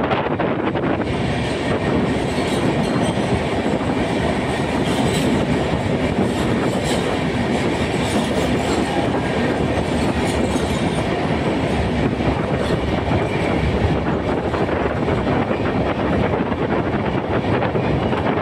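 A train running on its rails, a steady dense noise that holds unchanged throughout.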